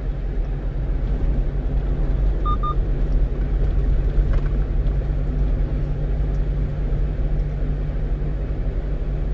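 Steady drone of a 1-ton truck's engine and tyres on the road, heard inside the cab. Two short high electronic beeps come close together about two and a half seconds in.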